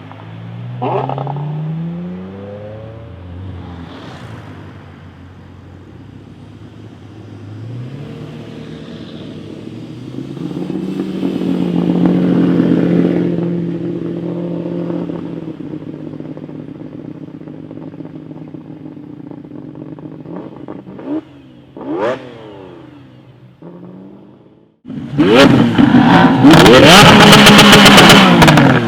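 V12 supercar engine accelerating through the gears, pitch climbing and falling, with two quick throttle blips a little past the middle. About 25 seconds in it cuts abruptly to a much louder, closer V12 revving hard.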